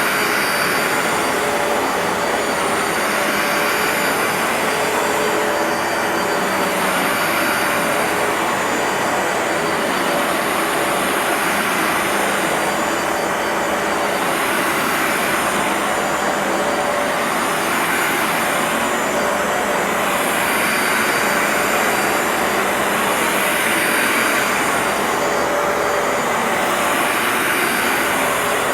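Bissell ProHeat 2X upright carpet cleaner running steadily while washing a rug, its motor noise swelling and easing every couple of seconds.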